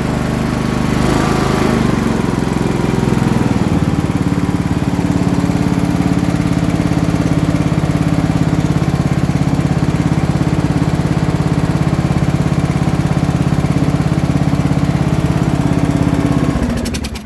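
Riding mower's small gasoline engine, just restarted on choke, running steadily at a fast even pulse; its pitch settles in the first few seconds, and it shuts off about a second before the end.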